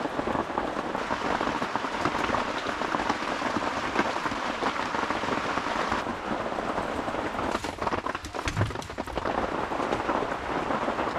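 Steady heavy rain falling on the roof, with a brief low thud about eight and a half seconds in.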